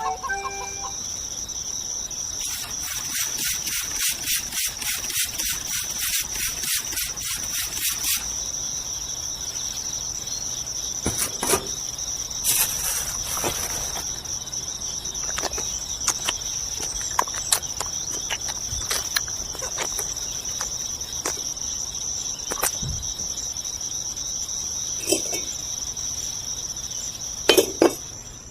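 Insects trilling in one steady high-pitched tone throughout, with a fast even run of ticks for several seconds near the start and scattered sharp clicks and taps after that.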